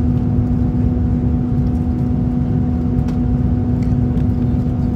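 Airbus A330-300 passenger cabin in cruise: a steady, loud drone of engines and airflow with a constant low hum through it.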